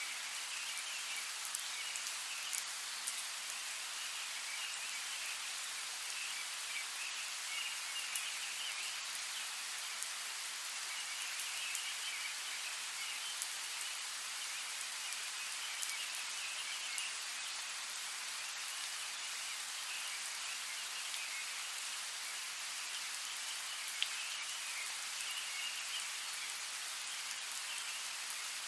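Steady rain, an even hiss with scattered individual drops ticking sharply on a surface.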